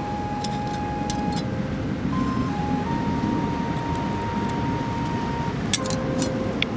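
Steady low rumble of wind and surf at the shore, with a slow, soft melody of long held notes over it and a few sharp clicks.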